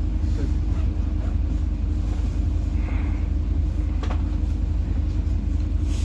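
Engine of a PAZ-4234-04 bus running, heard from inside the passenger cabin as a steady low drone, with a short rattle about four seconds in.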